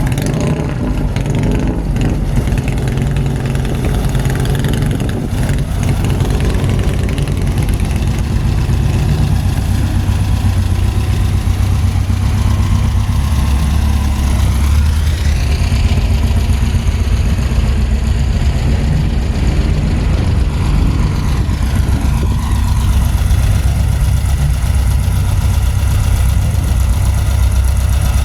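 Car engine idling with a steady deep rumble, with a rise and fall in pitch about halfway through.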